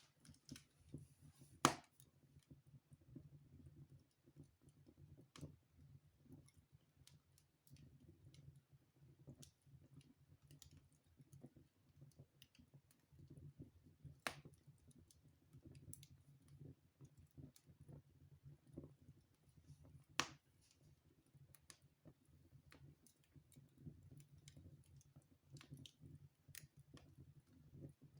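Wood fire burning in a fireplace, crackling faintly with scattered small crackles and three sharper pops, over a low steady rumble.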